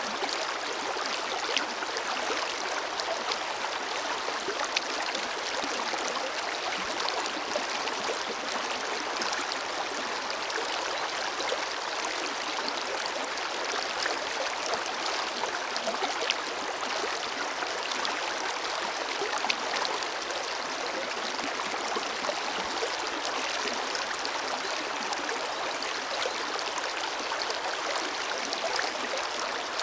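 Forest river flowing steadily, an even rush of water with small splashes and gurgles throughout.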